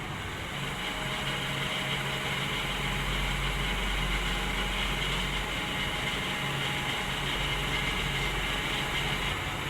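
Isuzu 6BG1 six-cylinder diesel engine, swapped into a Volvo EC210D excavator, running steadily with an even, unchanging hum.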